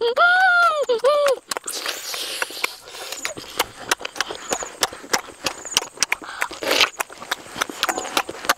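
A boy's drawn-out hum with wavering pitch, ending about a second and a half in, then close-up chewing and lip-smacking: a quick, irregular run of sharp mouth clicks.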